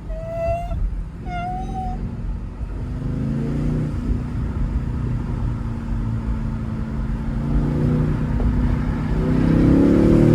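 Car driving with a heavy low road rumble in the cabin, its drive sound rising in pitch as it accelerates, climbing most steeply near the end.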